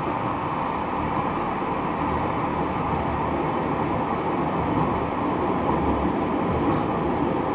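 Tram running along its rails with a steady rumble of wheels on track.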